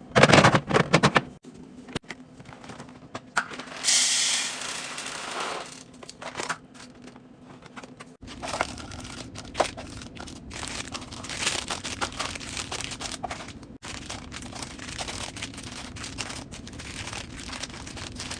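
Fridge restocking sounds: plastic packaging crinkling and tearing, with clicks and knocks of containers and items being handled and set in place. The sound breaks off abruptly several times between short takes.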